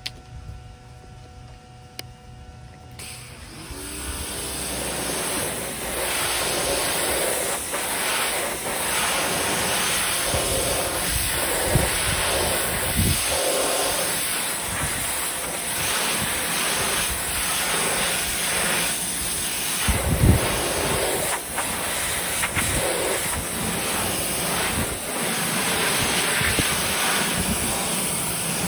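Electric pressure washer spraying water against vinyl siding, starting about three seconds in and then running as a steady rushing spray that swells and dips as the jet moves.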